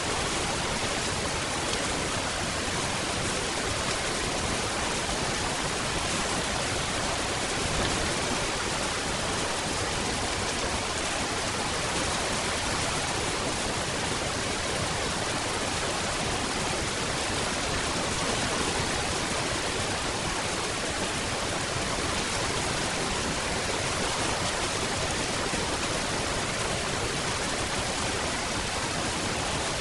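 Steady rain, an even hiss with no distinct drops, thunder or changes.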